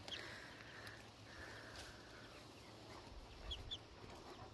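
Quiet outdoor background with a faint hiss in the first couple of seconds and a couple of short, high bird chirps near the end.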